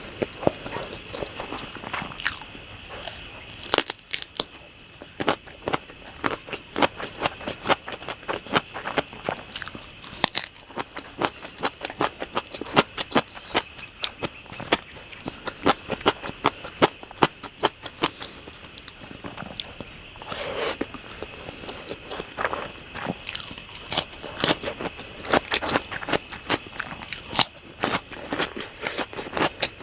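A person eating close to the microphone: quick, irregular chewing, mouth clicks and smacks. Behind it runs a steady, high insect trill.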